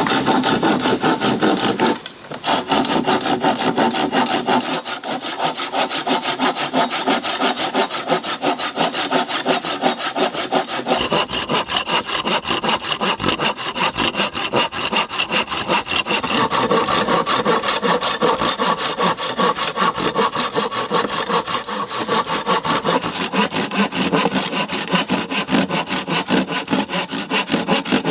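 Wood being cut with a hand saw in quick back-and-forth strokes, with a short pause about two seconds in.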